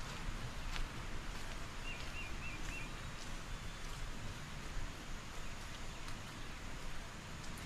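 Rainforest ambience: a steady hiss with a low rumble, a few faint clicks of footsteps, and a short warbling bird call about two seconds in.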